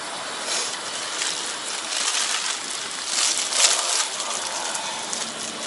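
Slurping udon noodles, several irregular airy sucking bursts, the longest about three to four seconds in.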